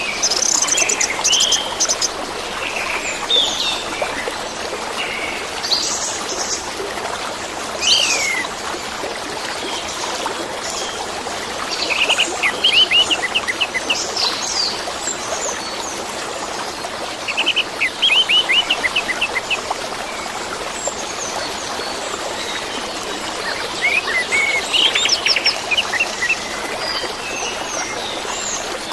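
Orange-headed thrush singing over steadily running water: varied chirps and whistled downward slides, broken by three runs of fast repeated notes, about twelve, eighteen and twenty-five seconds in.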